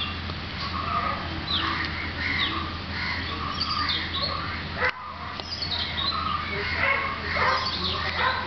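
Birds chirping and calling, many short chirps and falling whistles overlapping, over a low steady hum, with a brief break about five seconds in.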